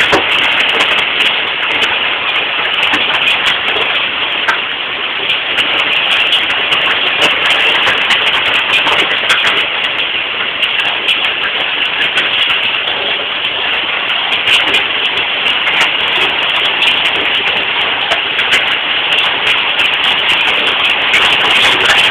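Heavy rain pouring down, a loud steady hiss, recorded on a phone's microphone.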